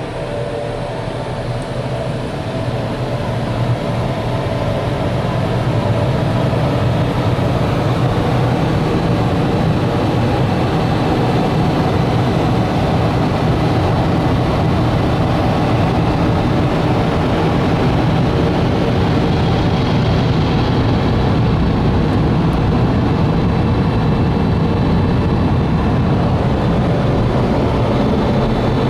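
Belanger car wash dryer blowers running: a loud, steady rush of air heard from inside the car. It grows louder over the first several seconds, then holds steady.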